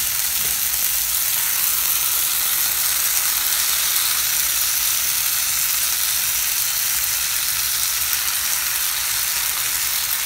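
Onion, tomato and green chilli masala sizzling steadily in oil in a non-stick pan while drained, soaked rice is added to it.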